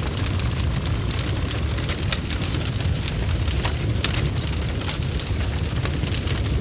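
Bonfire burning: a steady low rumble of flames with dense, irregular crackles and pops of burning wood.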